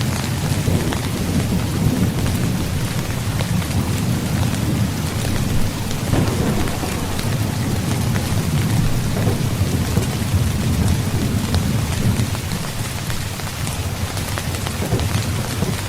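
Heavy rain falling steadily with a continuous low rumble of thunder underneath.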